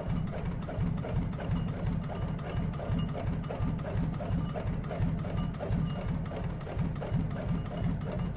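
Motorcycle engine idling with a regular tapping of about three taps a second over a steady low running sound.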